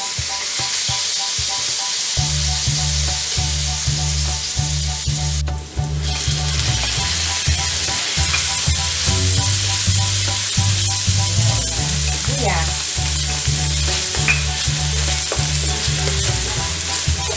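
Minced garlic and chopped onion sizzling in hot oil in a wok, stirred with a spatula. The sizzle dips briefly about six seconds in.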